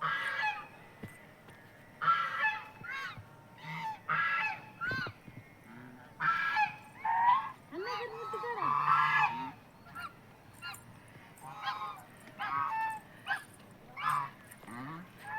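Geese honking repeatedly, in short calls that come in clusters every second or two.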